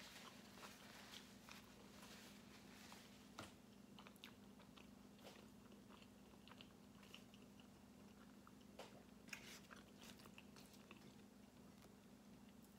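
Faint chewing and mouth sounds of a person eating, with many small scattered clicks and crackles, over a steady low hum.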